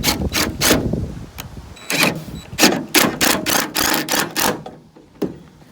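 Power drill running in about a dozen short bursts while driving screws, a clattering run that stops about four and a half seconds in, with one last short burst near the end.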